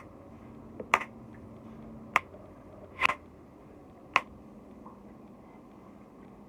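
Five sharp clicks or taps, about a second apart, over a faint steady hum.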